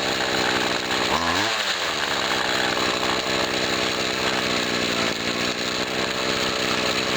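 1997 Husqvarna 24cc two-stroke string trimmer engine running at high revs; its speed briefly dips and picks back up about a second in, then holds steady. With a new metering diaphragm in the Walbro carburetor and fresh tuning, it runs without the bog at full throttle that the old diaphragm caused.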